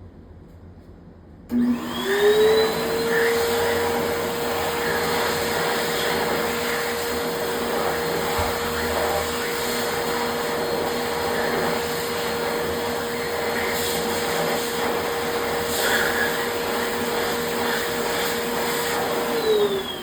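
Electric hand dryer (CR-108 B) starting up: its motor whine rises in pitch about a second and a half in, then runs steady with a rush of blown air, and near the end the whine falls as the motor winds down.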